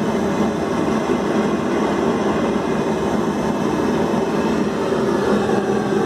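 Homemade propane venturi forge burner, built from 25 mm pipe, running lit with a steady rushing flame noise.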